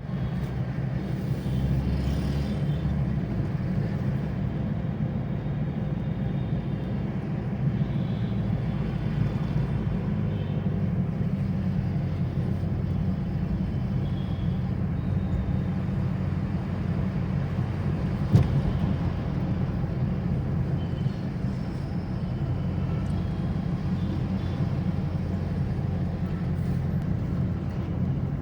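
Vehicle engine running steadily with a low rumble, and a single sharp knock about eighteen seconds in.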